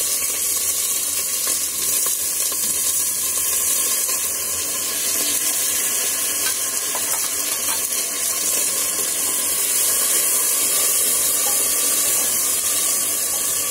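Vegetables sizzling steadily in hot oil with whole spices in an open aluminium pressure cooker. A wooden spoon stirs them near the end.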